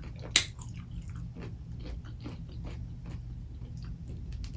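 A person chewing a mouthful of food with irregular wet clicks and smacks, with one sharper click about half a second in.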